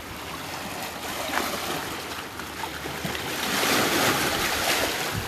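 Sea surf washing on the shore, a steady hiss that swells louder for a second or so about three and a half seconds in.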